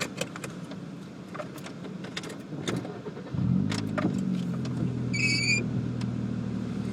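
A car engine starting about three seconds in, after a few clicks and rattles, then running at a steady idle. A short electronic beep sounds briefly midway through the idle.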